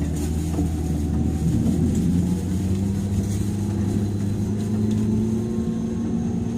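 Running sound inside a 103 series electric train's motor car: the hum of its resistor-controlled DC traction motors and gears, rising slowly in pitch from about two seconds in as the train gathers speed.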